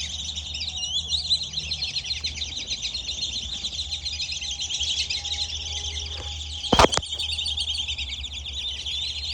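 A flock of black-bellied whistling ducks keeps up a dense, unbroken chorus of rapid high-pitched whistles and chirps. A single sharp knock cuts in about seven seconds in.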